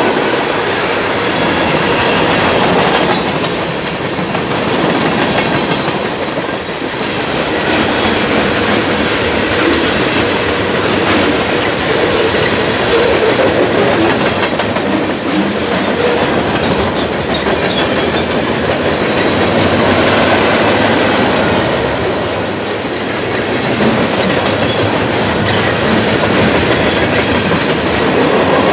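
CSX mixed freight train's cars rolling past close by: steel wheels running on the rails with a steady, loud rumble and rattle as tank cars, hoppers and empty flatcars go by.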